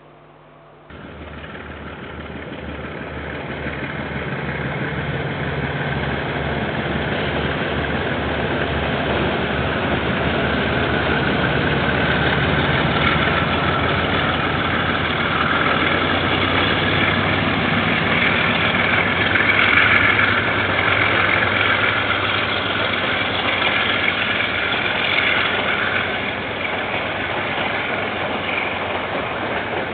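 KiwiRail diesel locomotive approaching, its engine running with a regular low throb and growing steadily louder, peaking near two-thirds of the way through and then easing slightly as the train comes past. The sound starts abruptly about a second in.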